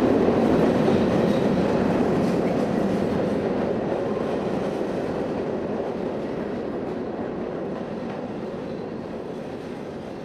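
Train passing through a railway tunnel: a steady, dense low noise of the moving train that fades gradually as it pulls away.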